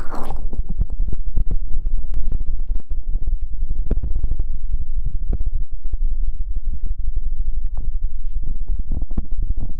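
ASMR rustling and rubbing close against a microphone: a dense run of soft, irregular taps over a deep rumble.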